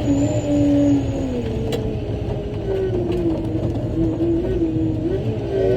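Large mining haul truck's diesel engine and drivetrain running under way: a steady low rumble with a whine whose pitch drops over the first couple of seconds and then wavers as engine speed changes.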